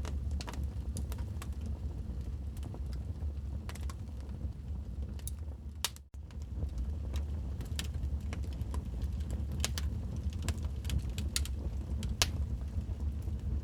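Wood fire crackling in a fireplace: irregular sharp pops and snaps over a steady low rumble of the flames. The sound cuts out for an instant about six seconds in.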